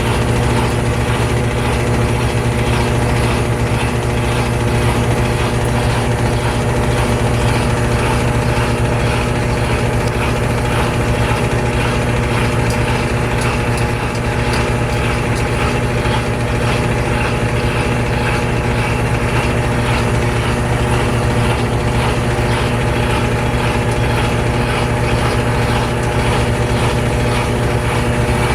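Washer of a GE Spacemaker GUD24ESSM1WW laundry center in its final spin, the drum running steadily at full spin speed.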